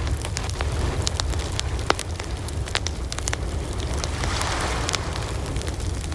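Wood fire burning, with sharp irregular crackles and pops over a steady low rumble of the flames; a soft hiss swells briefly about four seconds in.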